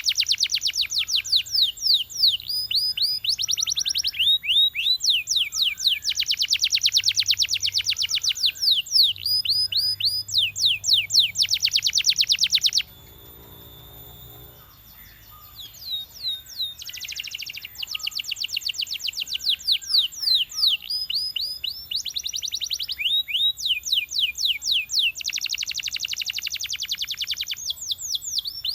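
Canary singing in fast trilled phrases of rapidly repeated down-slurred high notes, changing from one trill to the next every second or two. The song stops abruptly about halfway through, then starts again a few seconds later.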